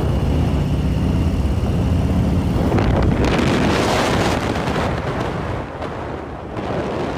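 A vehicle engine running steadily, with wind noise on the microphone that grows much stronger about three seconds in and covers the engine.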